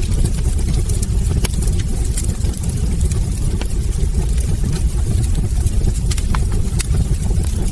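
Wood fire burning in a fireplace: a steady low roar of flames with sharp crackles and pops about once a second.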